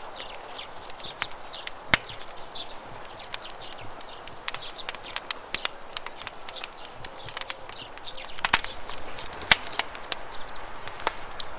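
Wood campfire crackling with irregular sharp pops, thickest about two-thirds of the way through, over the steady rush of river water.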